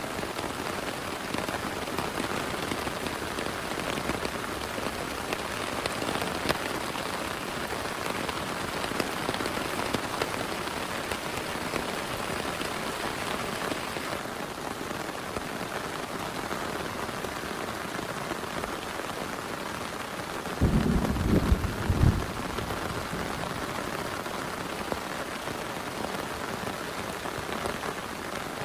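Heavy rain falling steadily. About three-quarters of the way through, a brief low rumble lasting a second or two rises above it.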